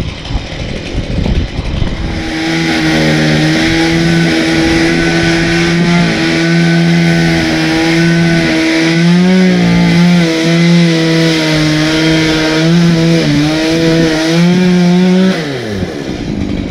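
Chainsaw running at high speed with a steady pitch that dips briefly now and then as it takes load, then winding down in pitch when released near the end.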